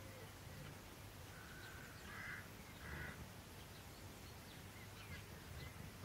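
Faint wild bird calls: two short, harsh calls about two and three seconds in, and a few brief high chirps near the end.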